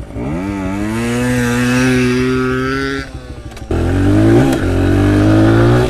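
Pit bike engine revving up and held at high revs for about three seconds, easing off, then revving hard again a moment later.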